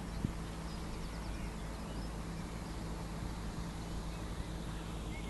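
Outdoor marsh ambience: a few faint, scattered bird chirps over a low, steady hum.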